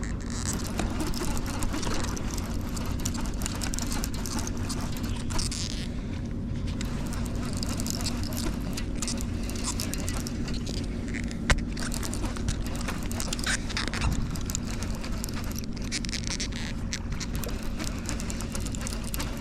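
Steady low engine drone under outdoor background noise, with one sharp click about eleven seconds in.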